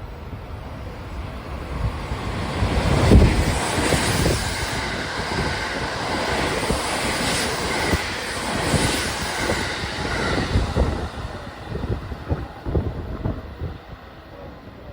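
A 683-series limited express electric train passing through a station without stopping. The rush of wheel and running noise builds about two seconds in, carries repeated wheel thumps over the rail joints, and fades away in the last few seconds.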